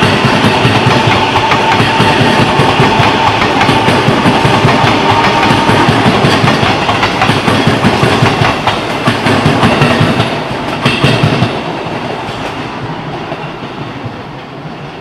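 JR East E233 series 7000-subseries electric commuter train running past, its wheels clattering over the rails, with a steady whine during the first several seconds. The sound fades from about eleven seconds in as the last cars go by.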